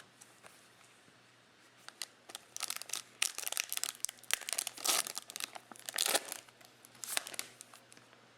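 A trading-card pack wrapper being torn open and crinkled by hand: a run of crackly rustling and tearing that starts about two seconds in and dies away near the end.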